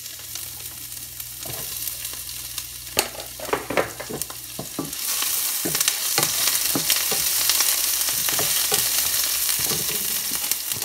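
Sliced onions and green chillies sizzling in hot oil in a wide frying pan. A wooden spatula knocks and scrapes against the pan as they are stirred. The sizzling grows louder about halfway through.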